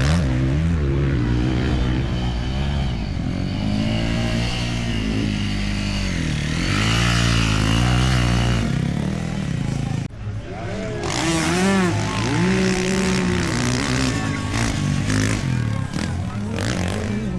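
Motocross dirt bike engines revving up and down as the bikes ride the track, with pitch rising and falling as they change gear. The sound breaks off sharply about ten seconds in and resumes with more bikes revving.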